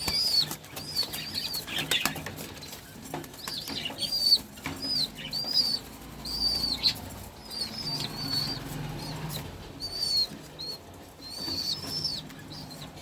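Domestic pigeons flapping their wings in a flurry at feeding time. Short high chirping calls repeat about every half-second to second, with low cooing underneath.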